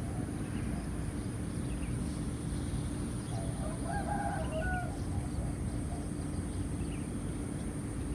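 A rooster crowing once, about a second and a half long, midway through, over steady low background noise.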